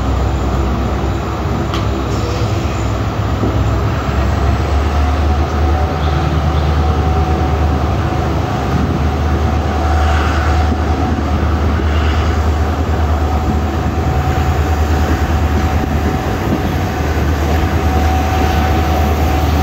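Passenger train coach running along the track: a steady rumble of wheels on rail, with a thin steady whine that comes in a few seconds in and holds to the end.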